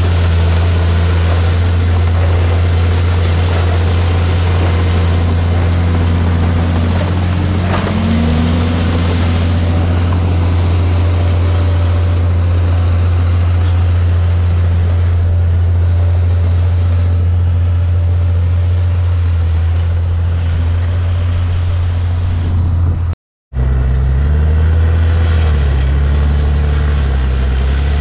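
Heavy diesel engine of a crawler bulldozer running steadily, a loud low hum. It drops out for an instant about three quarters of the way through, then returns with its pitch stepping up and down as the engine speed changes.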